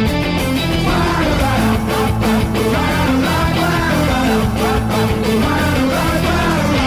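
Punk rock band playing an instrumental passage: electric guitars, bass and drums, with a wavering melody line coming in about a second in.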